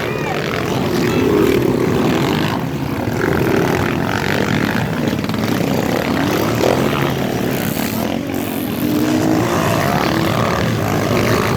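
Motocross dirt bike engines revving, their pitch rising and falling as the bikes ride the track.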